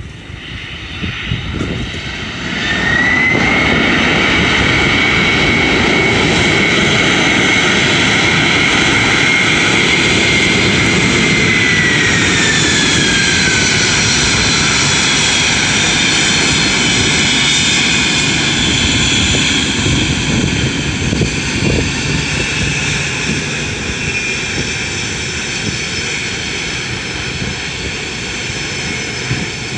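Boeing 767-300 jet engines spooling up to a loud, steady roar with a rising whine about two and a half seconds in, as in reverse thrust after touchdown. From about eleven seconds the whine glides down as the engines spool back, and the roar eases toward the end.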